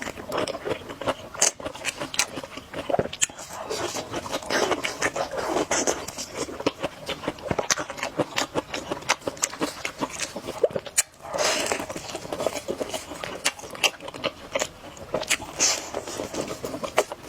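Close-miked eating sounds of spicy noodle soup: wet chewing with many quick lip smacks and mouth clicks, broken by a few longer slurps of about a second each.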